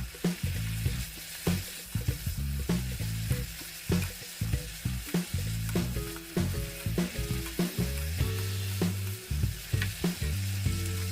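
Julienned burdock root sizzling in a pan as it is stirred while its soy-sauce and syrup glaze reduces. A spatula or utensil knocks against the pan about once or twice a second.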